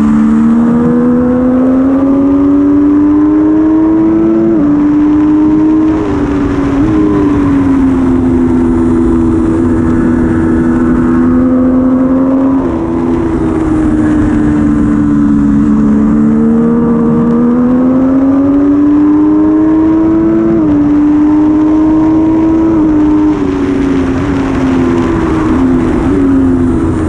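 Triumph Daytona 675R's 675 cc inline-three engine at racing speed. Its pitch climbs steadily through the revs and drops sharply several times as the gears shift up, under a steady rush of wind.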